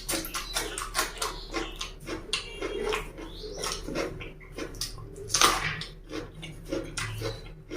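Close-up eating sounds: wet chewing and lip smacking in quick, irregular clicks, with one louder, noisier mouth sound about five and a half seconds in.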